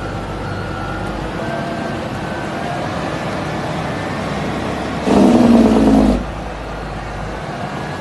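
Custom Ford L9000 dump truck's engine running under way, its pitch climbing slowly as it accelerates. About five seconds in comes a loud blast of about a second.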